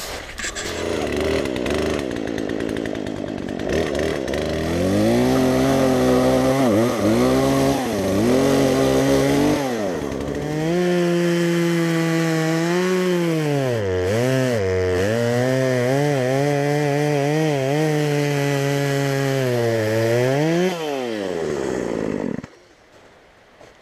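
Chainsaw running and cutting into a tree, its pitch dropping and climbing back again and again as the chain bites and frees up. It shuts off suddenly near the end.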